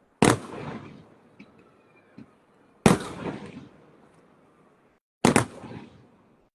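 Three fireworks bursts, each a sharp bang followed by about a second of crackling, spaced roughly two and a half seconds apart.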